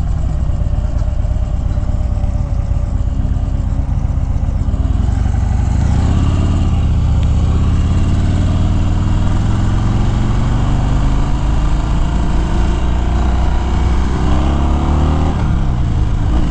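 Harley-Davidson Fat Bob's V-twin engine accelerating as the motorcycle gets under way. Its pitch climbs and drops back at gear changes, about six seconds in and again near the end.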